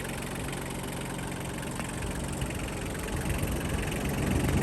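Kubota B1750's small three-cylinder diesel engine running steadily, getting louder near the end.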